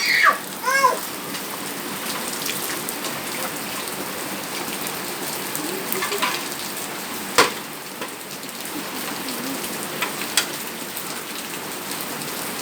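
Steady rain falling and pattering on surfaces, with a brief high-pitched voice in the first second and a single sharp knock about seven seconds in.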